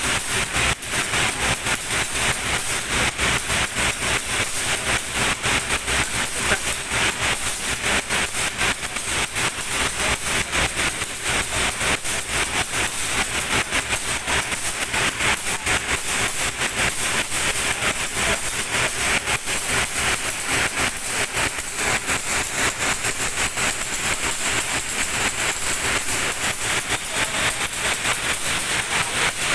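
Passenger train in motion, heard on board: a steady rushing noise with rapid clattering of the wheels on the rails.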